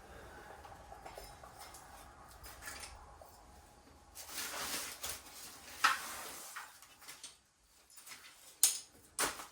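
Motorcycle front shocks being handled and set into a plastic storage tote: scraping and rustling, then a few sharp knocks, the loudest about three-quarters of the way through and another just after it.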